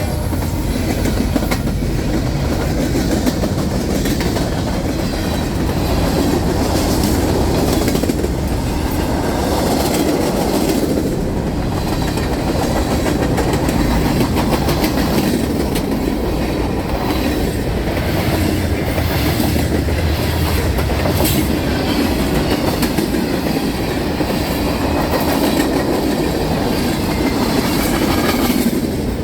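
Freight train rolling past at steady speed: a continuous rumble of cars with the wheels clacking over the rail joints.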